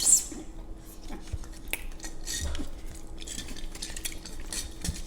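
Eating utensils clicking and scraping against plates and bowls of pasta, in scattered small taps with one sharper clink right at the start.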